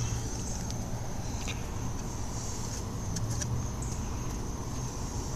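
Outdoor background ambience: a steady low rumble with a steady high-pitched hum above it, and a few faint clicks.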